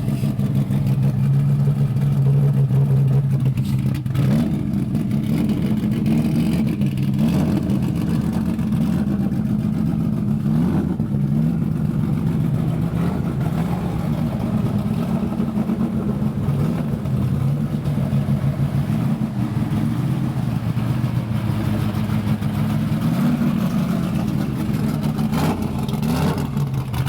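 A car engine running steadily at a low idle, its pitch rising briefly a few times as it is given light throttle.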